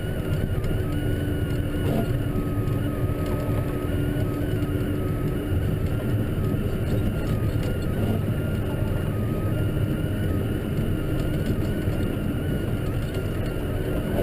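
Case tractor engine running steadily under a constant low rumble, with no change in pace.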